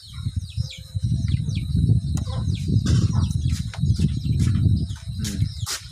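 Birds chirping repeatedly, short high calls that fall in pitch, over a louder low rumbling noise close to the microphone and a steady high whine.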